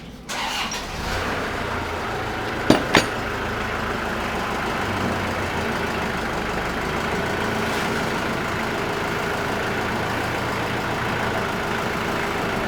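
New Holland tractor engine coming in suddenly just after the start, then running steadily. There are two sharp knocks close together about three seconds in.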